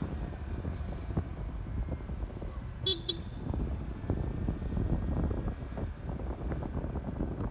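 Wind and road rumble while riding a Honda ADV 150 scooter, with a brief vehicle horn toot a little under three seconds in.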